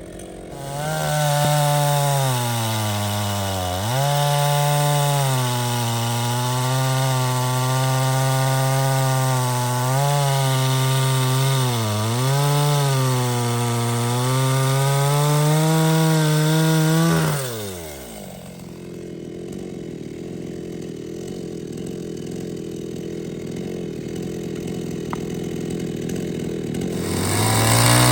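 Two-stroke chainsaw at high revs cutting wood, its pitch dipping several times as the chain bites. About 17 seconds in the throttle is let off and the pitch falls away to a quieter, rougher sound, then it revs up again just before the end.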